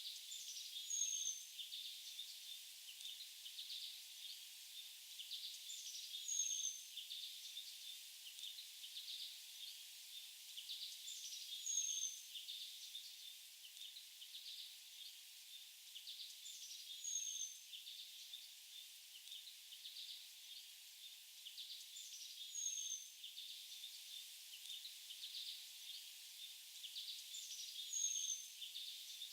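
Faint forest birdsong: a high call that drops in pitch and ends in a short whistle, repeated about every five seconds, over steady high chirping.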